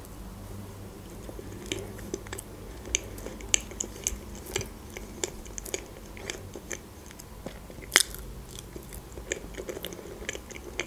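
Close-miked mouth sounds of a person chewing soft cream sponge cake: many small wet clicks and smacks, with one sharper click about eight seconds in.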